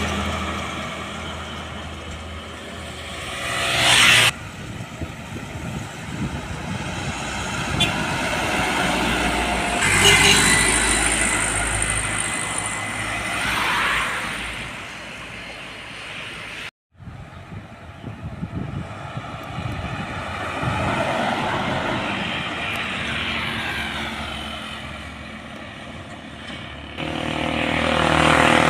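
Road traffic with heavy trucks and other vehicles passing one after another, each engine swelling and fading as it goes by. The sound cuts out for a moment about two-thirds of the way through.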